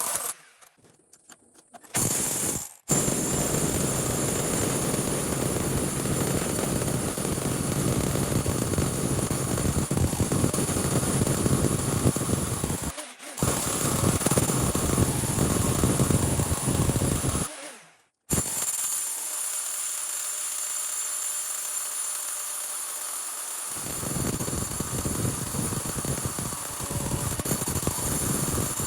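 Electric demolition hammer chiselling rock, running in long, steady stretches broken by brief stops.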